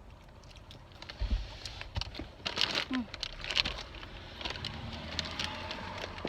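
Rustling and handling noises with scattered clicks, and a dull thump about a second in.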